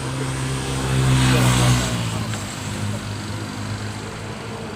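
A motor vehicle engine running at a steady pitch. It grows louder about a second in, then drops back and keeps running more quietly from about two seconds in.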